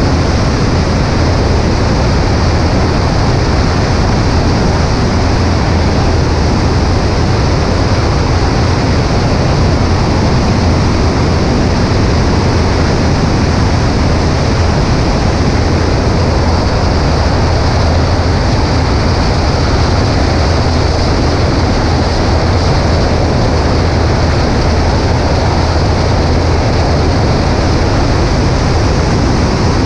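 A Cessna 140A's engine and propeller running with a steady low drone under a heavy rush of wind over a camera on the right wing.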